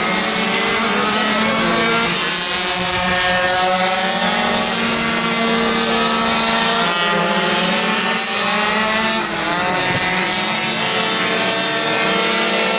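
Several two-stroke minimoto engines racing at high revs, their overlapping buzzing pitches rising and falling as the riders throttle on and off.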